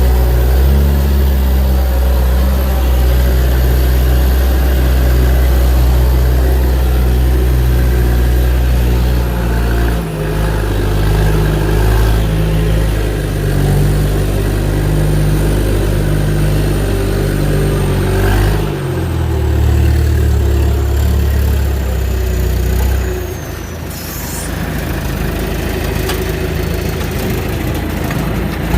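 Diesel engine of a logging machine running, its note shifting up and down several times as the load changes, with a faint high whine gliding slowly down in pitch.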